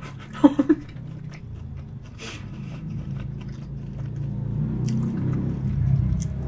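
Chewing and biting sounds, with a few faint clicks, over the low rumble of a passing motor vehicle that slowly grows louder.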